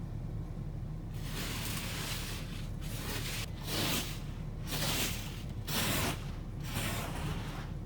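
Snow being swept off a car windshield: several swishing strokes, roughly one a second, over a steady low hum.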